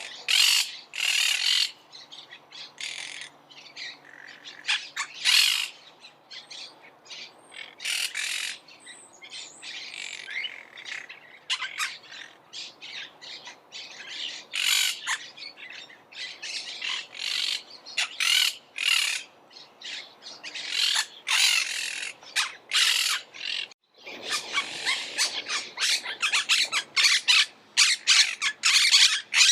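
Monk parakeets squawking: a run of short, harsh, screechy calls one after another. After a brief break about 24 seconds in, the calls come denser and overlap.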